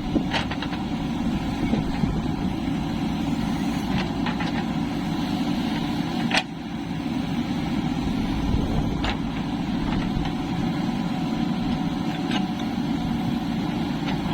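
Heavy diesel engine running steadily, with a few sharp knocks, one about six seconds in followed by a brief dip in the engine sound.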